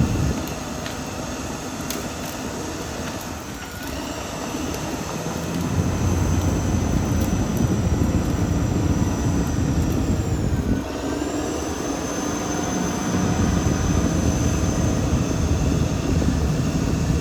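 Caterpillar D6R XL bulldozer's diesel engine running under working load, a steady low rumble that grows louder about six seconds in. A high whine rides over it and dips in pitch twice, near the start and again past the middle.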